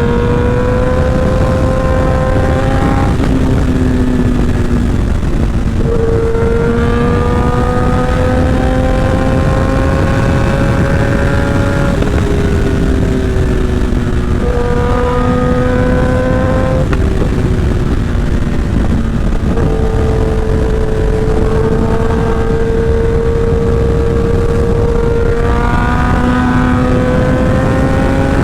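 Sportbike engine with a short SC Project exhaust running hard at highway speed. Its pitch slowly climbs under throttle and drops back several times. Heavy wind rush on the microphone lies beneath it.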